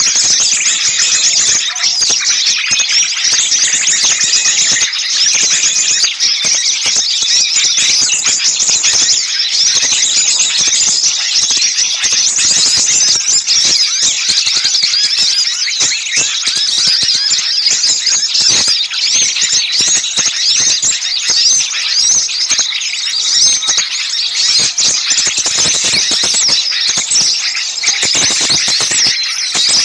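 Dense, loud chorus of many small songbirds chirping and trilling rapidly all at once, high-pitched and without a break: a bird-lure recording of small birds in a noisy, agitated commotion.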